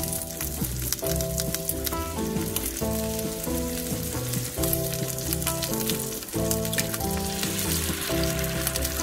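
Chorizo slices and silverbeet stalks sizzling and crackling in oil in a frying pan on medium heat, the sizzle growing louder near the end as an egg is cracked into the hot oil. Background music with a melody plays over it.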